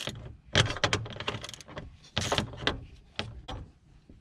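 Irregular clunks, knocks and rattles of a truck's engine fan shroud being handled and fitted back into place, about half a dozen sharp hits over the few seconds.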